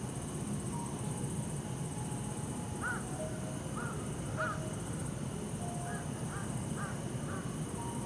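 A bird gives seven short calls in two groups, three and then four. Behind them run the steady hum of distant city traffic and the high, continuous trill of bell crickets.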